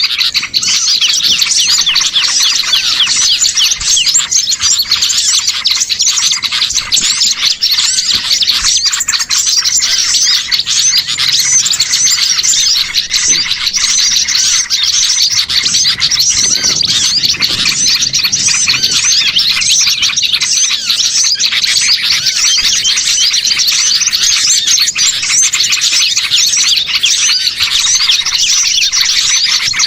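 Dense, unbroken chorus of many small songbirds chirping and twittering over one another, high-pitched and loud throughout: a bird-lure (pikat) recording of mixed small birds, made to draw wild birds in.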